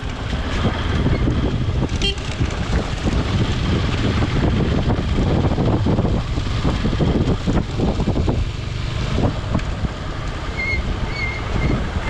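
Low rumble of a vehicle on the move with wind buffeting the microphone.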